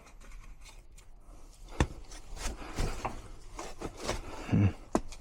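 A run of scattered clicks and knocks from things being handled, starting about two seconds in, with a duller thump near the end.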